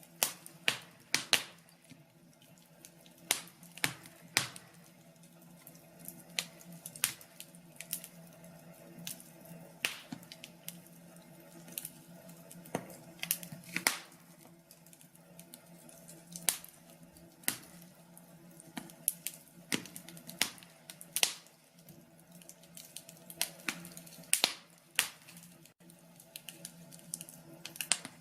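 Wood fire in a fireplace crackling, with irregular sharp pops and snaps coming a few times a second at uneven spacing, over a steady faint low hum.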